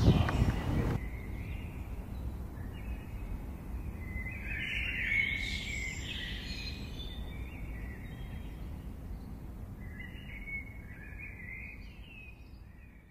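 Outdoor ambience: birds chirping now and then, loudest a few seconds in and again near the end, over a low steady background rumble that fades out at the close.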